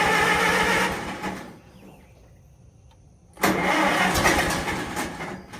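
Farmall M tractor's starter cranking the engine in two tries with a pause between, each ending without the engine catching.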